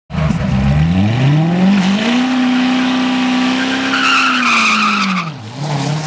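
Supercharged 6.2-litre V8 of a stock Corvette ZR1 on drag radials revving up over about two seconds and held at high revs for about three seconds in a burnout, with tyre squeal near the end. The revs then drop back about five seconds in.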